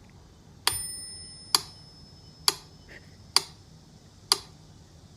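Sharp ticks repeating evenly, a little under once a second, five or six in all. The first, about two-thirds of a second in, is followed by a brief high ringing tone.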